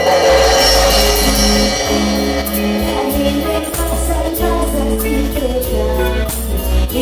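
Live cumbia band playing an instrumental passage, with keyboard, guitar, bass and steady percussion.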